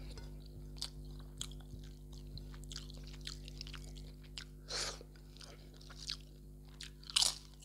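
Close-miked eating mouth sounds: scattered small wet clicks and smacks of chewing, with two louder wet mouth sounds, one about five seconds in and one near the end, over a steady low hum.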